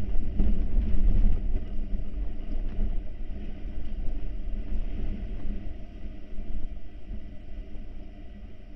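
Hurricane wind buffeting a barn owl nest box, heard on the nest-cam microphone as a low, gusting rumble, strongest in the first second or so and easing toward the end.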